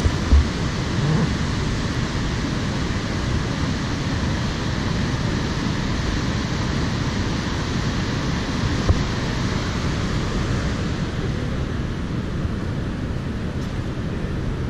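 Wind blowing across the microphone over the steady rush of ocean surf, with brief low buffeting thumps near the start and about nine seconds in.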